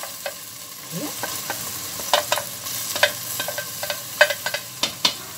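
Chopped tomatoes scraped off a metal plate with a wooden spoon into a pot of hot oil and tomato paste, sizzling steadily, with a string of sharp knocks and clicks as the spoon hits the plate and the pot's rim and then stirs.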